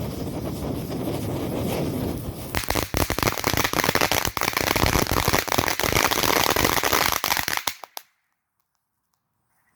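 Volcano fountain firework spraying sparks: a steady hiss, then from about two and a half seconds in a loud, dense crackling that cuts off suddenly just before eight seconds.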